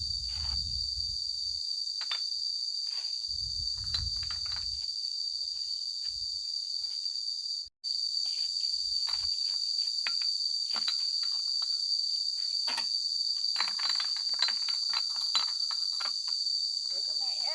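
A steady, high-pitched insect chorus shrills on without a break. It cuts out for a moment about halfway through. Scattered light clicks and knocks come over it, thickest a few seconds before the end.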